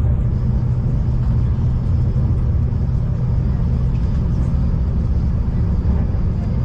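Steady rumble of a V/Line diesel passenger train under way, heard from inside the carriage: a constant low engine drone over the running noise of the wheels on the track.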